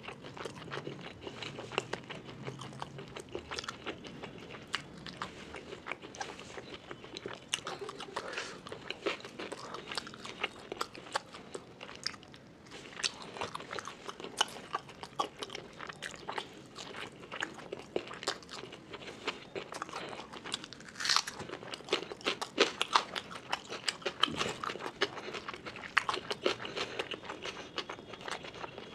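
Close-up mouth sounds of a man eating rice and curry by hand: steady chewing and smacking, with many quick, sharp clicks and crunches.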